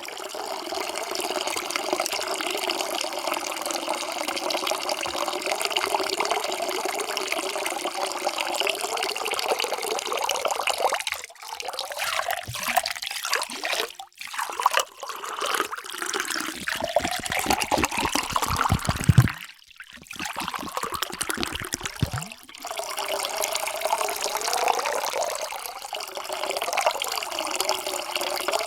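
Water pouring into a container in a steady splashing stream, in several separate pours with short breaks between them; one pour swells to its loudest just before it stops.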